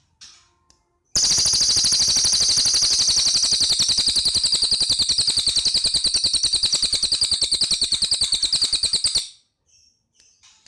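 Cililin bird singing a long, loud, very rapid machine-gun trill of about a dozen notes a second. It starts about a second in, runs for about eight seconds and stops abruptly. Faint short chirps come before and after it.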